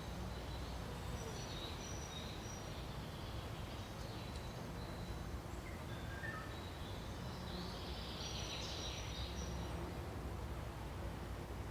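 Forest ambience: several faint, thin, high bird calls, a few at the start and another cluster past the middle, over a steady low background rumble.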